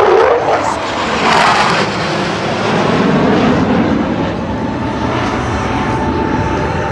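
USAF Thunderbirds F-16 fighter jet making a loud pass, a sudden rush of jet noise at the start, then a steady roar whose pitch drops as it goes by.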